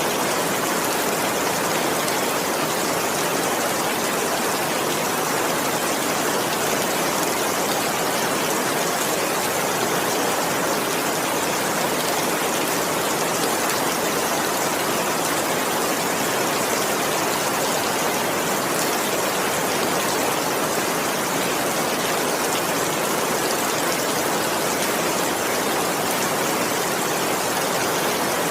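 Heavy rain falling steadily: an even, dense hiss with no thunder.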